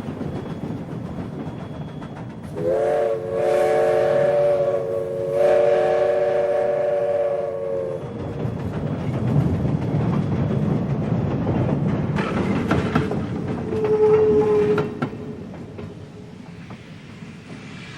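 A train whistle sounds a chord: one long blast begins about two and a half seconds in and lasts some five seconds, and a short blast follows near the end. Underneath is the steady rumble and clatter of the train's wheels on the track.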